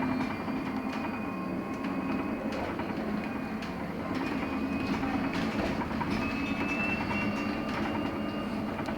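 Inside a LiAZ-6274 electric bus on the move: steady road and tyre rumble with the electric drive's thin whine, which rises in pitch about halfway through as the bus speeds up, and scattered light rattles.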